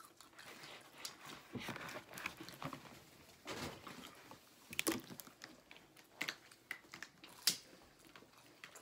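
Several people chewing and biting into chicken nuggets and a chicken sandwich, with scattered small clicks and rustles; the sharpest clicks come about five seconds and seven and a half seconds in.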